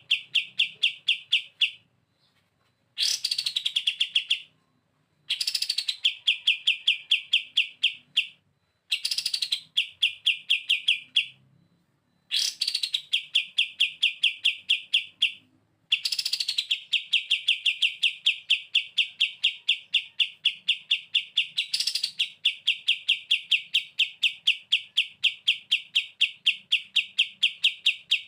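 Kapas tembak songbird singing its rapid 'bren' trill: a fast, even string of identical sharp notes, several per second, in bouts of a couple of seconds separated by short pauses, each opening with a brief higher note, and running on unbroken over the last dozen seconds.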